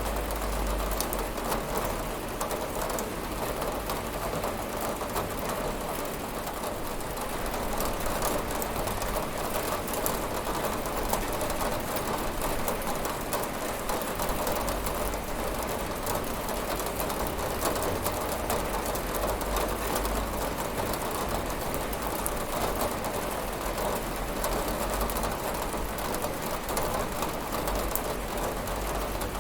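Steady rain pattering on a window pane: a dense, even hiss of drops with a low rumble underneath.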